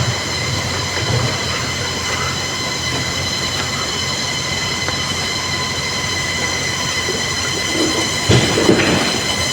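Steady rushing of river water, with a thin high whine over it and a brief stir near the end.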